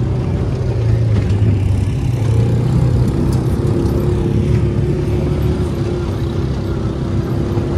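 UTV engine running steadily while riding, a loud low drone; a higher steady hum joins about three seconds in.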